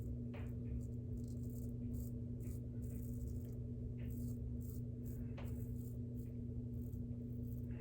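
Short scraping strokes of a shavette razor with a half DE blade cutting through lathered stubble, coming two or three a second, over a steady low hum from a running laundry machine.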